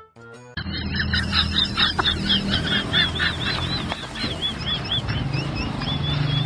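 An animal making a rapid series of short, high calls, about three or four a second, over steady low background noise. A snatch of music ends just before the calls begin.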